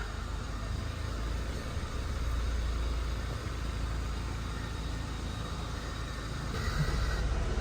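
Honda Civic engine idling steadily, being tested for a rough idle just after its idle air control valve was cleaned and relearned. It gets a little louder near the end.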